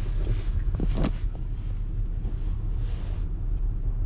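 Low, steady rumble of a car heard from inside the cabin, with a brief higher sound about a second in.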